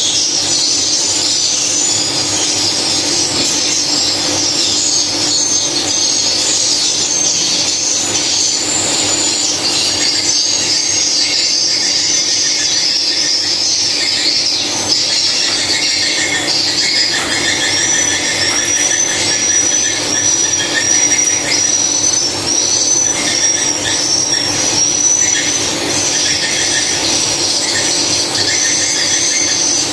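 Swiftlets twittering: many short, high chirps repeated in dense succession, more evenly spaced in the second half, over a steady low hum.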